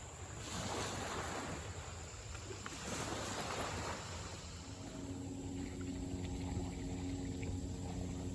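Rushing, splashing water noise, then from about halfway through a small motor starts a steady, low-pitched hum that keeps running.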